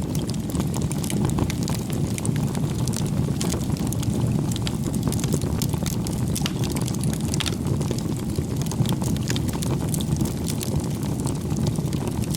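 Wood fire burning, a steady low rumble of flames with frequent sharp crackles and pops from the burning wood.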